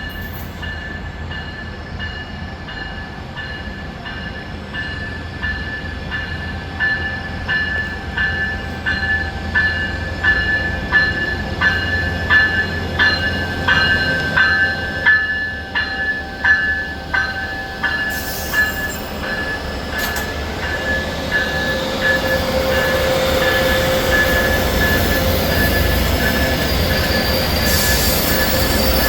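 A grade-crossing bell rings steadily, about two strikes a second, as an Amtrak passenger train approaches. From about two-thirds of the way in, the train's passing noise grows louder, with steel wheels squealing on the rail.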